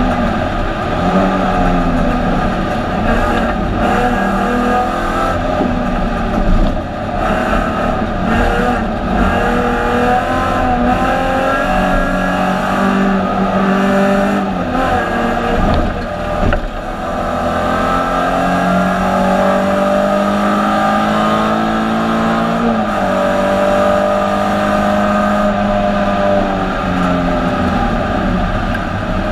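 Alfa Romeo 156 GTA's 3.2-litre V6 race engine heard from inside the cockpit, revving hard on track: its pitch climbs in long sweeps under acceleration and drops sharply at gear changes or braking, about six, sixteen and twenty-three seconds in.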